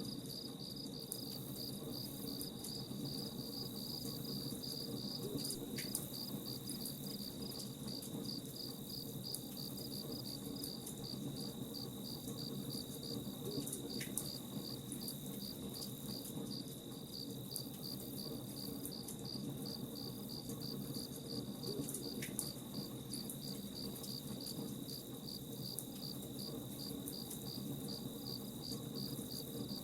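Crickets chirping in a steady, fast pulsing rhythm over a continuous low rush with faint scattered crackles, as of a campfire. A brief higher note recurs about every eight seconds.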